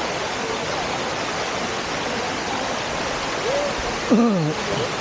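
Steady rush of waterfall water, an even noise that doesn't change, with a voice calling out briefly near the end.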